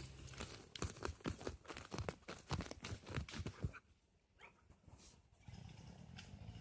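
A dog close to the microphone making a quick run of short, sharp sounds, about four a second, for some three seconds, then falling quiet; a steady low hum returns near the end.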